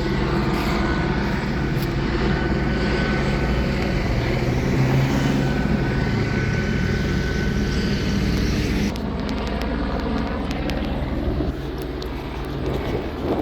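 Police helicopter rotor and engine running: a steady low drone that drops a little in level about nine seconds in.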